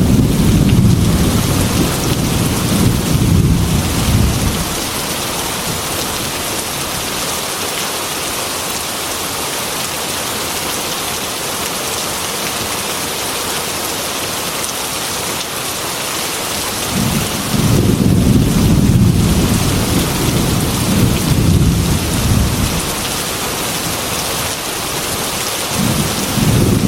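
Heavy rain falling steadily against a glass window, with deep thunder rumbles. The rumbles last through the first four seconds, come again for about five seconds past the middle, and start once more near the end.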